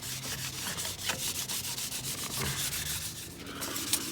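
Sandpaper being rubbed by hand over a car's exhaust tip in wet sanding, a scratchy rubbing in repeated strokes as it grinds off baked-on tire debris and grime.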